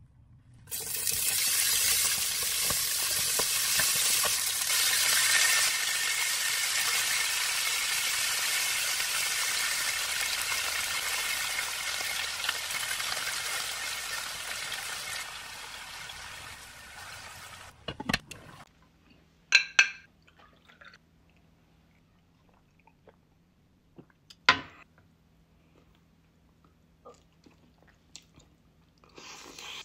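Squirrel meat sizzling in hot oil in a cooking pot with onions and seasonings. The sizzle starts suddenly and stays loud, then fades and stops about eighteen seconds in. After that there is only a low hum with a few sharp clicks and taps.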